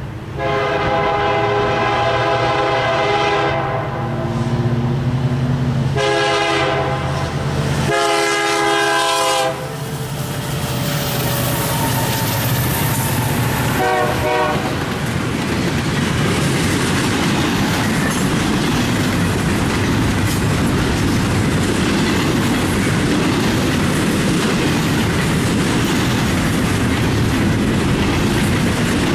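Lead diesel locomotive of a freight train sounding its horn for a grade crossing: several chord blasts over the first ten seconds or so and a last short one near fourteen seconds. The locomotives then pass, and double-stack intermodal cars roll by with a steady rumble and wheel clatter.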